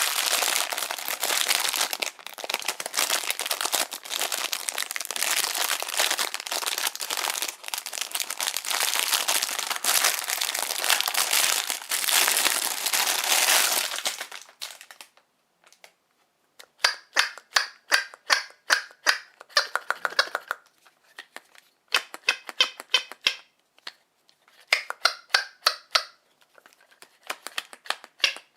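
Plastic packaging crinkling and rustling for about fourteen seconds. After a pause, a squeaky toy hammer squeaks in four quick runs of short, high-pitched squeaks, about four a second.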